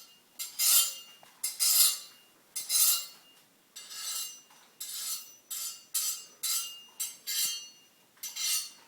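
A straight razor stroked back and forth on a leather strop: about ten swishing strokes, roughly one a second and coming quicker in the second half, with a faint metallic ring.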